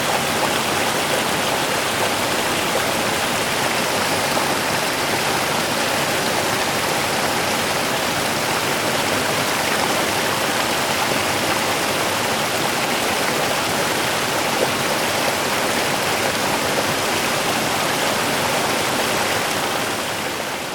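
Small river running, a steady rush of flowing water over stones that begins to fade out near the end.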